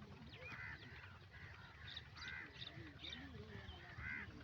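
Birds calling outdoors: repeated short calls about every half second, with higher chirps mixed in, over a faint low rumble.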